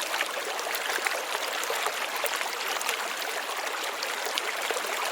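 Steady rushing water: an even hiss with many small crackles and no change in level.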